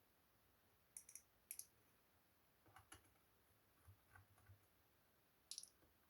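Faint clicking: quick sharp clicks in pairs about a second in and again at a second and a half, softer taps in the middle, and another quick cluster of clicks near the end.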